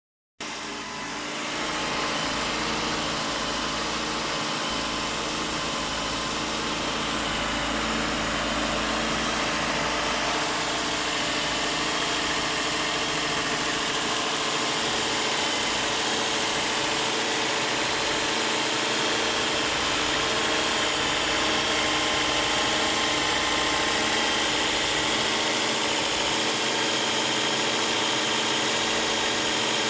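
Nissan X-Trail T30's 2.0-litre four-cylinder petrol engine running steadily at idle, unchanged throughout, while an engine-cleaning fluid is fed into its intake through a drip.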